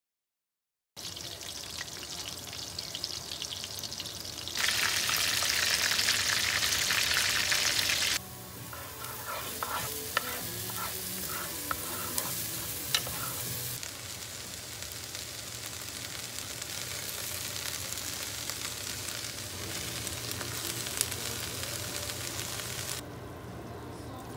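Food frying in hot oil in a pan across a few short clips: a loud, hissy sizzle for about three seconds, then a quieter sizzle of chopped onion being stirred with a wooden spoon, with a few sharp taps of the spoon.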